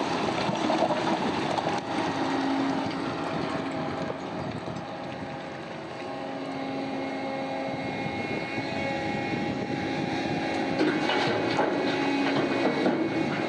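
Heavy diesel mining machinery running steadily, its engine drone swelling and easing, with clattering knocks in the last few seconds.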